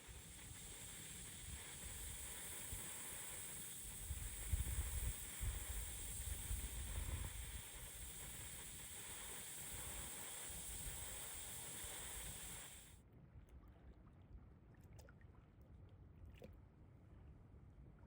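Strong wind buffeting the microphone over the rush of wind-driven lake water, with heavy gusts. About thirteen seconds in the sound cuts off abruptly to a much quieter scene with a few faint ticks.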